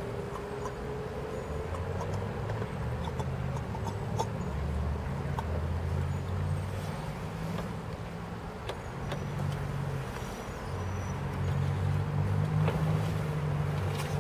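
Car engine running, a low steady hum heard from inside a car, growing a little louder near the end.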